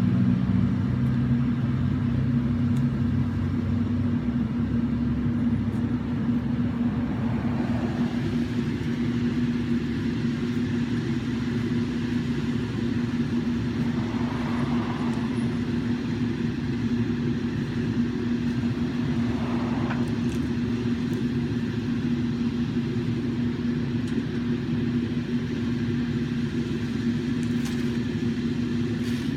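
Claw truck's engine running steadily, a constant hum as it works the grapple boom picking up limbs, with a few faint brief sounds over it.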